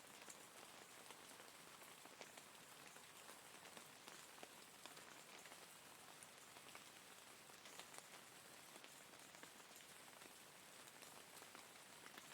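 Faint, steady rain falling, with many scattered drops ticking.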